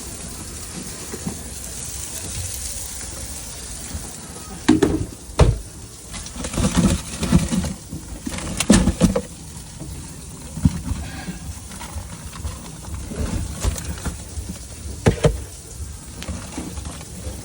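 Steady sizzle of food cooking on a food-truck griddle, broken by several sharp clanks and clatters of metal utensils. They are loudest about five and nine seconds in, with another near the end.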